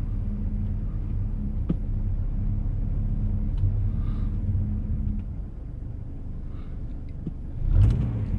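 Car engine running under throttle as the car tries to move on a driveway of solid ice under a thin layer of snow, without getting traction. The steady low hum eases about five seconds in, then surges briefly near the end.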